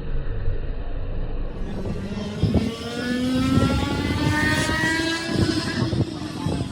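A car accelerating hard at a drag strip. Its engine note rises steadily in pitch for a few seconds, then levels off, over a low rumble.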